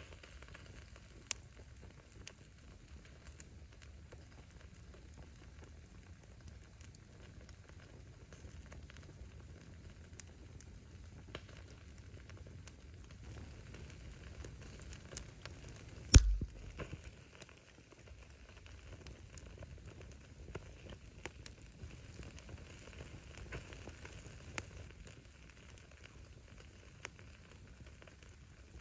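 Firewood burning in an open bonfire, crackling with scattered sharp pops over a low steady rumble of the flames. One much louder pop with a thud comes about halfway through.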